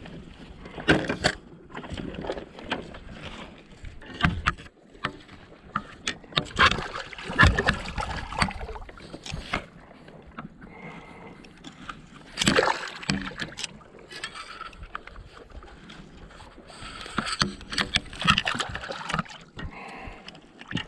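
Water splashing and sloshing around a fishing kayak, with knocks against the hull, coming in irregular bursts.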